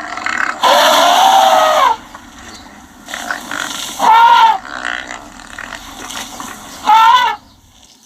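Elephant calling: one long, loud call that arches up and down in pitch, then two shorter high arching calls a few seconds apart, with quieter low sounds between them.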